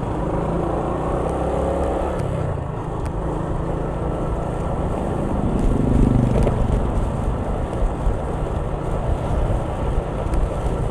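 Vehicle engines and road noise in slow, jammed traffic: a steady low rumble with an engine hum, swelling briefly louder about halfway through.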